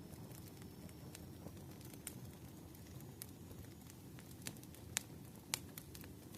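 Crackling fire ambience: a steady low rumble with scattered sharp pops and crackles, two louder pops near the end.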